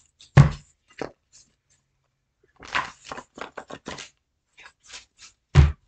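Tarot cards being handled on a table: a dull thump, a run of light clicks and taps from the cards, then another dull thump near the end.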